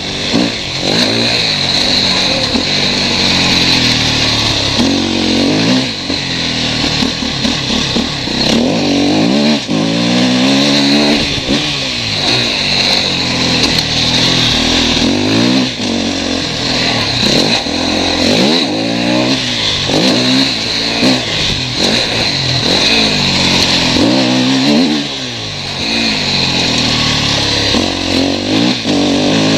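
KTM 250 EXC-F's single-cylinder four-stroke engine revving up and down over and over, its pitch rising and falling as the throttle is opened and closed around the track.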